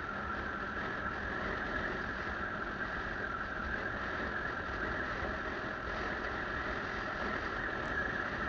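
Motorcycle on the move, a steady, even rush of engine and riding noise with no changes in pace.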